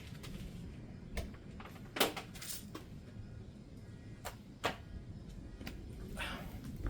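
Vintage Happy Home box fan with a Universal Electric motor running on high, a steady low rush of air, with several short knocks and clicks over it.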